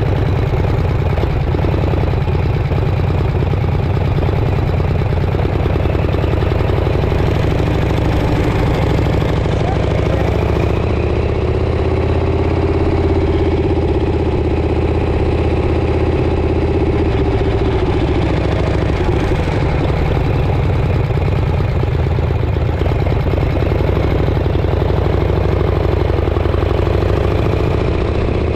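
Motorcycle engine running steadily while riding, its note rising and falling slightly midway.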